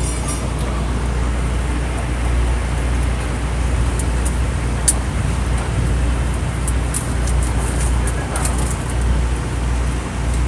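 Vehicle engine running steadily with a low rumble, a few faint clicks over it.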